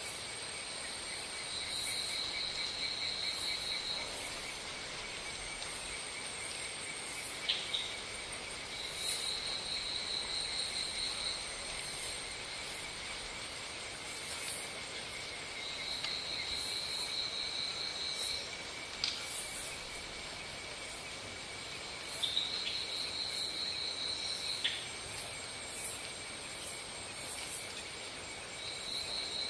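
A chorus of insects: a steady high buzzing, with a higher trill of about two and a half seconds that comes back every six seconds or so, and a few sharp clicks.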